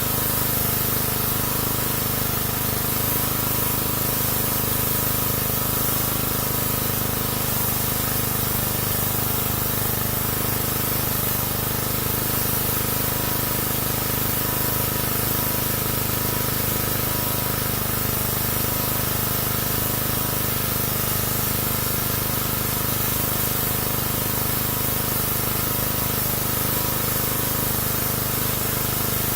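Pressure washer spraying a steady jet of water, with a steady hum underneath.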